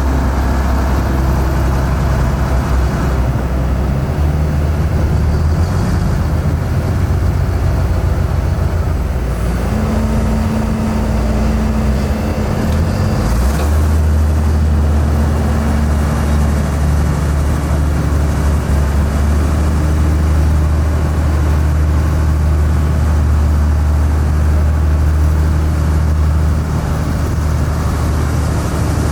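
Heavy diesel engine running, with a change in engine speed about ten to thirteen seconds in, then running steadily.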